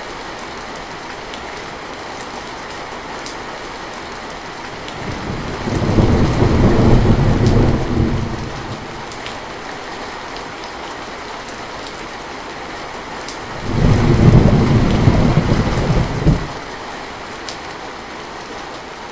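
Steady heavy rain hissing, with scattered drips, and two rumbles of thunder: one building about five seconds in and a second around fourteen seconds, each lasting about three seconds and louder than the rain.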